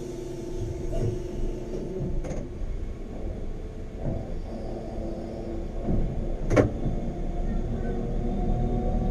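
Train running, heard from inside a carriage: a steady low rumble with a few sharp knocks, and a faint whine rising a little in pitch near the end.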